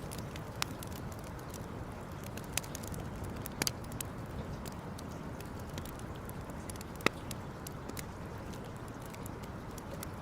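Campfire crackling: scattered sharp pops and snaps over a steady low hiss, with the loudest pop about seven seconds in.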